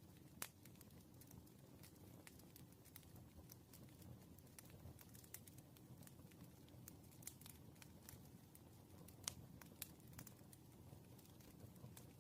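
Faint, irregular small clicks and taps of pen-and-paper work at a desk, over a low, steady room hum. The louder ticks come about half a second in and near nine seconds.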